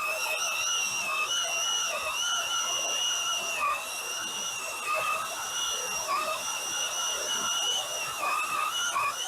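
Power drill driving a large hole saw through wood, its motor whining steadily and dipping in pitch several times as the saw bites and loads the motor.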